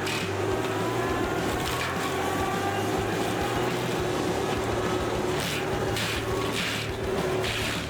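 Log debarking and planing machine running with a steady hum, with several short bursts of noise in the second half as the blades work the log.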